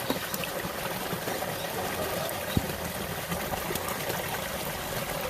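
Steady sound of running, trickling water, with one sharp knock about two and a half seconds in.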